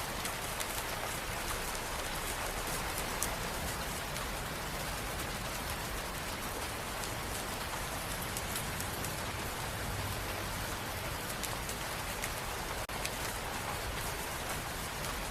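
Steady rain falling, an even wash of sound with the crisp ticks of single drops.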